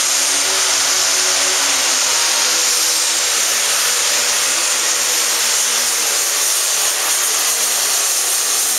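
Pro stock pulling tractor's turbocharged diesel engine running loud and steady, a strong high hiss over a low, slightly wavering engine tone.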